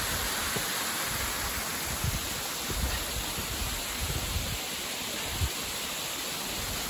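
Steady rush of the Cleddon Falls waterfall cascading down a wooded slope, with irregular low rumbles underneath.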